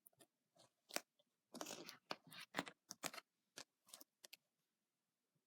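Faint scattered clicks and rustles, about a dozen short ones between about one and four and a half seconds in, over near silence.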